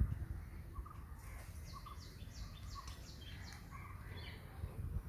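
Outdoor birdsong: a bird gives a run of quick, high, falling notes for a couple of seconds, with a few shorter chirps around it, over a low steady background rumble.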